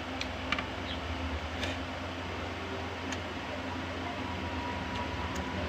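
Eating sounds: a few faint sharp clicks and smacks of chewing and eating rice by hand, about five in all, over a steady low background hum.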